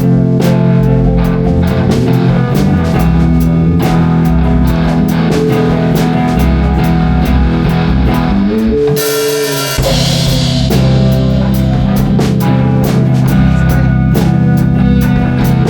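Instrumental stretch of a rock song played on drum kit and guitar, with a steady beat and no singing. About nine seconds in the drums drop out for a moment under a rising slide and a swell of hiss, then the full band comes back in.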